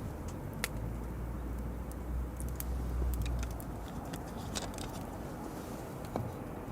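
Wood campfire crackling with scattered sharp pops, over a low rumble that swells through the first half.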